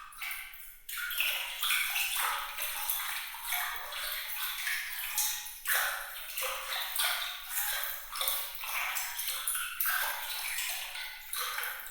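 Water trickling and dripping in a quick, continuous run of bright, high plinks and small splashes, with no low rumble.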